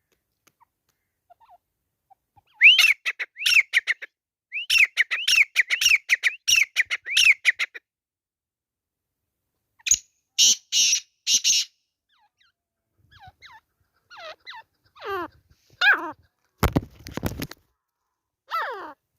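Grey francolin calling: a fast run of repeated, arched whistled notes lasting several seconds, then three harsh, rough notes, then scattered downward-sliding calls. A short low rush of noise comes in near the end.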